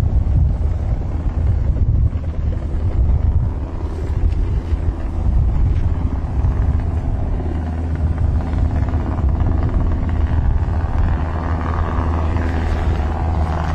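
A large engine running steadily, a loud low drone with no break.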